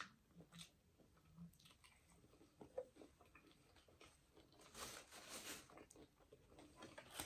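Faint close-miked mouth sounds of a person chewing food, with small wet smacks and clicks, and a brief rustle about five seconds in.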